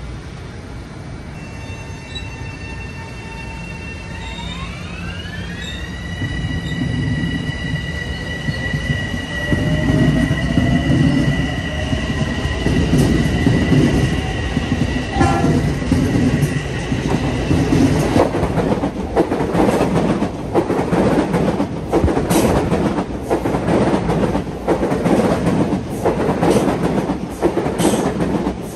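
A train approaching and passing close by. A high whining tone slides up in pitch and holds for about ten seconds while the rumble grows loud, then the wheels clatter rhythmically over the rail joints as the cars go by.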